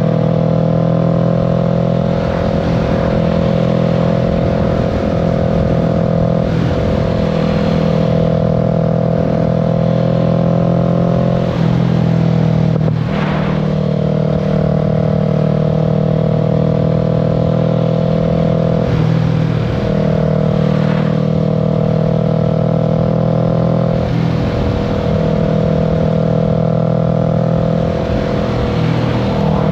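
Kawasaki Z650's parallel-twin engine running at a steady cruise, heard from the rider's seat, with its note shifting briefly a few times (about 12 seconds in, 19 seconds in and 24 seconds in), over a constant low rumble of wind and road.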